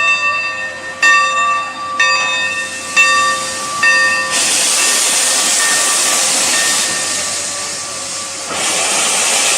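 Santa Fe 2926 steam locomotive's bell ringing about once a second. About four seconds in, a loud, steady hiss of steam takes over.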